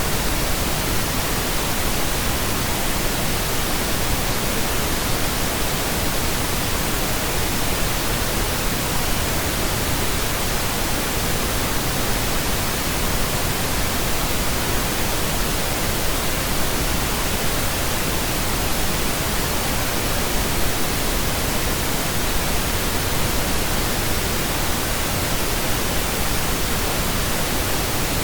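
Steady pink noise: an even, unchanging hiss across the whole range.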